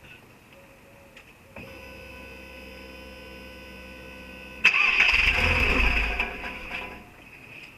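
VW Golf IV 1.4 16v being started. A steady electric hum comes on about a second and a half in. About three seconds later the engine is cranked in a loud burst lasting about two seconds, and both the cranking and the hum stop about seven seconds in.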